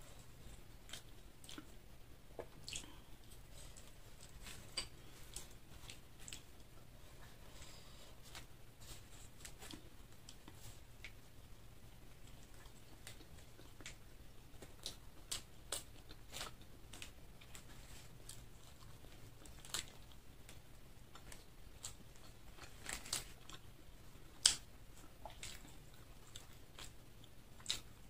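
A person quietly chewing crispy fried chicken and French fries, with scattered crunches and mouth clicks; one sharper crunch comes near the end.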